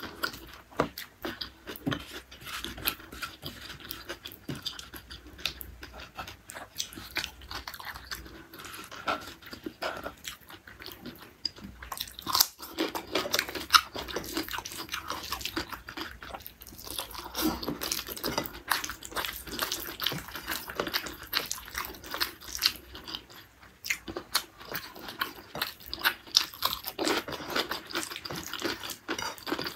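Close-miked eating: chewing and crunching of rice with beef tendon curry and petai beans, with many irregular sharp clicks and wet smacks. Fingers mixing the food on the plate add small scraping sounds.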